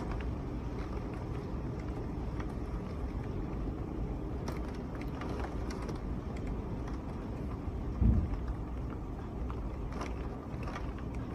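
Strong wind and heavy wind-driven rain: a steady rush of noise with scattered faint ticks, and a louder low gust about eight seconds in.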